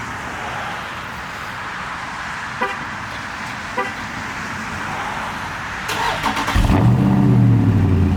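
Dodge Scat Pack's 6.4-litre 392 HEMI V8 cold-starting: a brief crank about six seconds in, then the engine catches loudly, flares up and settles into a fast cold idle. Before that there are two short beeps.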